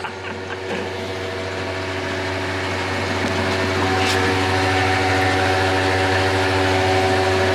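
An engine running steadily at idle, a constant low hum with steady tones above it that grows a little louder, with a single click about four seconds in.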